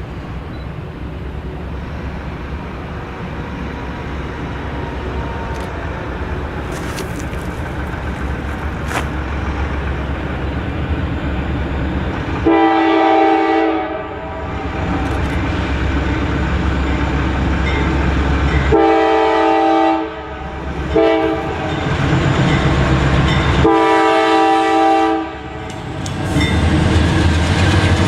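Diesel locomotive approaching, its low engine rumble growing louder, then sounding its multi-note air horn in the long, long, short, long grade-crossing pattern.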